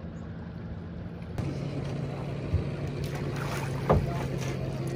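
Boat motor running steadily at slow trolling speed, a low even hum, with wind noise on the microphone. The sound turns abruptly brighter a little over a second in, and there is a single knock just before the end.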